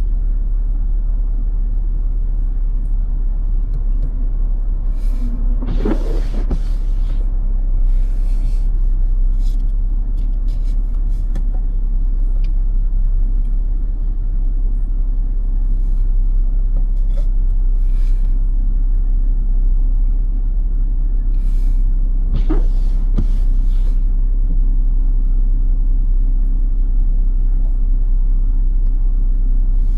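Car driving on snow-covered roads: a steady low rumble of engine and tyres, with a few brief sharper swishes or knocks, the clearest about six seconds in and again about 22 seconds in.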